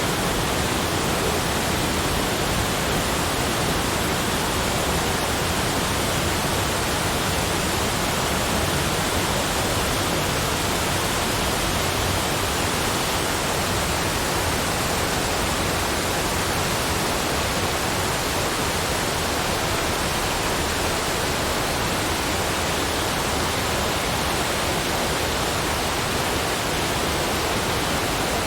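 Steady, unchanging rushing noise spread evenly from deep to high, with no separate events or tones.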